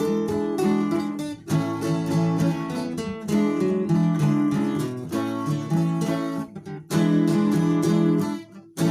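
Instrumental break in a sertanejo song: acoustic guitar strummed and picked in a steady rhythm, with a brief pause just before the end.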